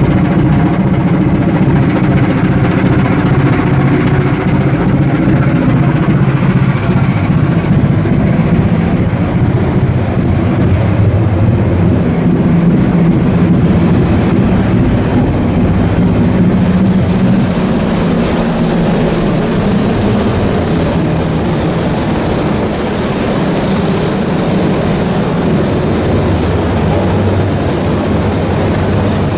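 Ship's diesel engine running steadily under way, a dense, loud rumble; a thin high whine comes in about halfway through and holds.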